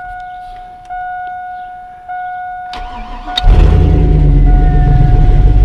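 GMC pickup truck engine cranking briefly and catching at once, about three seconds in, then running at a steady fast idle. Before it starts, a steady electronic warning chime tone sounds from the dash.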